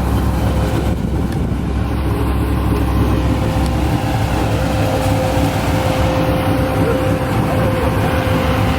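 Vehicle engine running steadily: a continuous low rumble with a faint steady hum over it.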